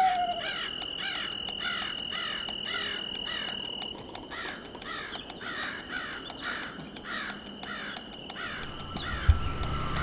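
Forest ambience: a bird calling a fast series of short falling notes, about two or three a second, over a steady high insect drone with fine ticking. A low rumble comes in near the end.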